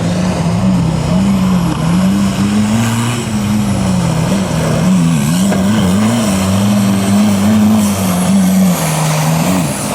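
Off-road vehicle's 1.9 TDI four-cylinder turbodiesel engine running loud, its revs rising and falling repeatedly under changing throttle and load.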